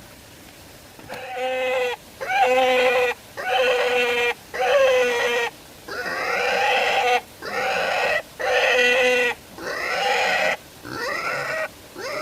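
An animal crying out again and again: about ten loud, fairly high-pitched cries, each lasting roughly a second with short gaps between, beginning about a second in.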